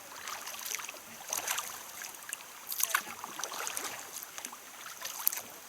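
Kayak paddle strokes splashing in river water, a few short irregular splashes and drips over a faint steady hiss of moving water.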